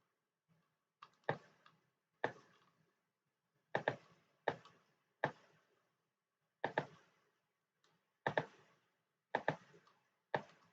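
Computer mouse clicking at an irregular pace, single clicks and quick pairs, about ten in all.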